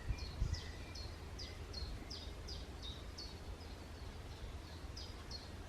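A small songbird singing a steady series of short, high, downward-sliding notes, about three a second, over a low rumble of wind on the microphone.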